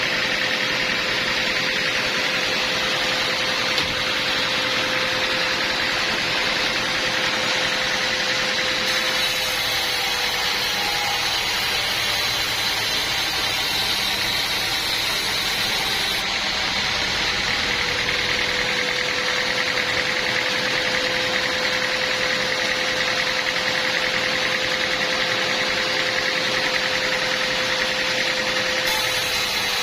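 Portable sawmill running steadily: an even, loud mechanical noise with a held steady tone throughout.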